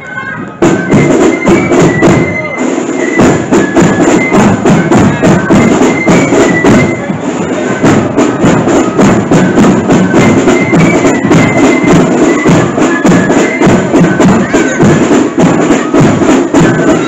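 Marching flute band playing a tune: flutes carry the melody over a steady, rapid beat of snare and bass drums. The band comes in loud about half a second in.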